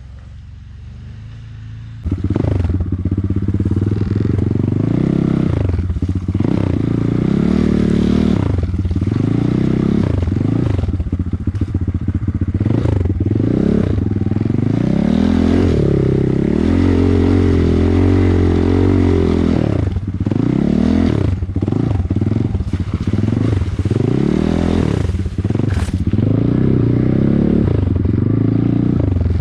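Off-road vehicle engine being ridden hard, revving up and down again and again, cutting in suddenly about two seconds in.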